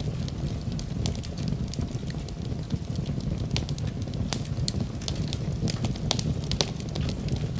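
Wood fire crackling in a fireplace: irregular sharp pops and snaps, several a second, over a steady low rushing rumble.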